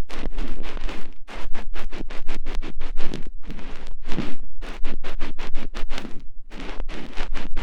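Ear-picking ASMR: an ear pick scraping close on the microphone in fast scratching strokes, several a second, broken by brief pauses.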